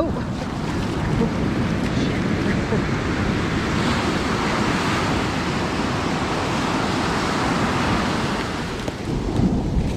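Loud ocean surf: a wave breaking and washing up the beach, with the rushing hiss swelling through the middle and easing near the end. Wind buffets the microphone.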